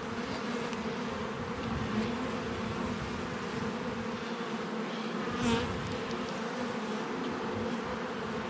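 Honeybee colony buzzing steadily from an open hive during a frame inspection, a continuous hum that swells briefly about five and a half seconds in.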